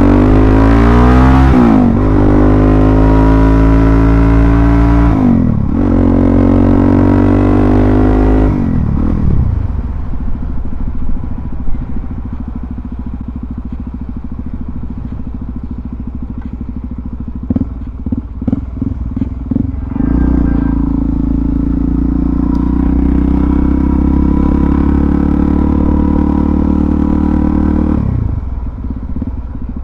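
Suzuki DR-Z400SM's single-cylinder four-stroke engine pulling through the gears, its pitch rising and dropping at shifts about 2 and 5.5 seconds in, then easing off at about 9 seconds into a quieter low run. A quick series of clattering knocks comes around 18 seconds in, then the engine holds a steady speed from about 20 seconds and eases off again near the end.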